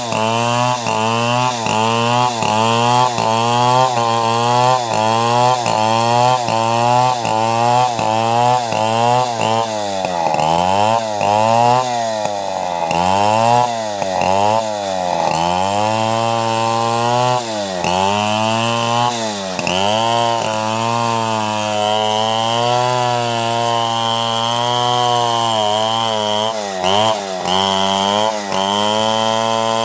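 A chainsaw running under load, ripping lengthwise through a log to cut boards. For about the first third the engine speed dips and recovers about twice a second, then it swings in slower, deeper dips, and later it runs steadier with a couple of brief drops near the end.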